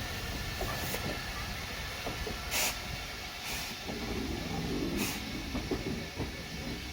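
Robert Stephenson & Co 0-6-0 steam locomotive working around the station, giving short sharp hisses of steam every second or two over a steady low rumble.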